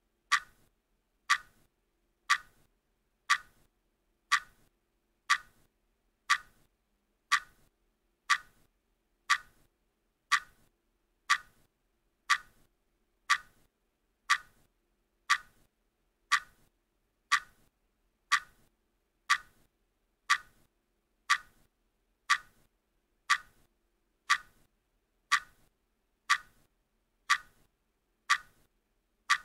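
Steady clock ticking from a countdown timer: one sharp, identical tick every second.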